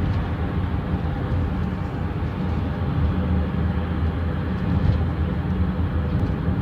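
Steady road noise inside a moving car on a highway: tyre and engine rumble with no distinct events.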